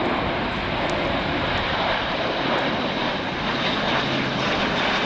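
Airbus A400M's four turboprop engines and propellers making a steady, loud drone as the transport aircraft flies past, with a low steady hum coming in near the end.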